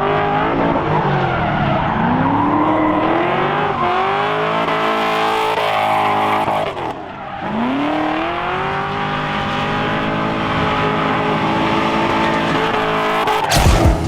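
Drift truck's engine revving hard with tyre squeal as it slides. The engine pitch climbs, drops away briefly about seven seconds in, then climbs and holds again. A loud sudden thump comes near the end.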